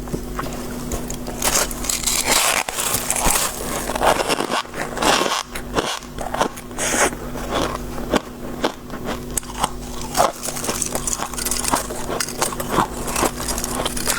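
Soft shaved ice being bitten and chewed close to the microphone: a dense, irregular run of crisp crunches.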